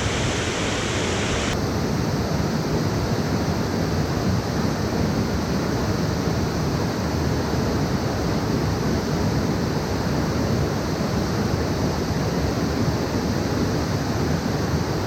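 Steady, even rush of a waterfall's falling water. Its hiss changes abruptly about a second and a half in.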